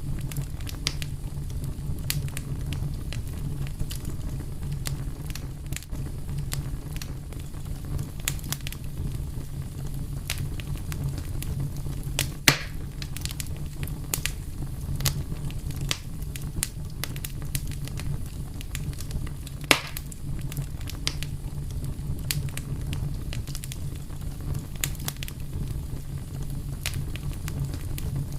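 Fire crackling: a steady low rumble of flames under a dense scatter of small crackles, with two louder pops about twelve and twenty seconds in.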